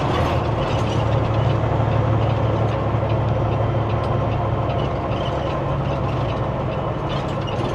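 Steady low drone of a semi truck's diesel engine and road noise heard inside the cab while driving.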